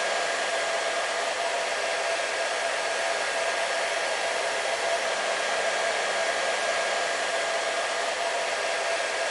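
Hair dryer running steadily on one setting: an even rushing airflow noise with a constant motor hum in it.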